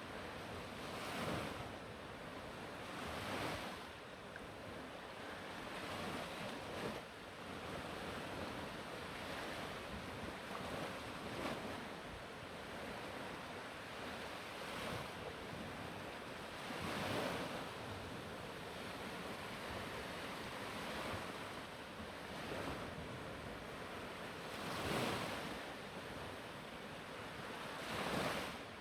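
Black Sea surf: waves breaking on the shore every few seconds, with a steady wash of water between them.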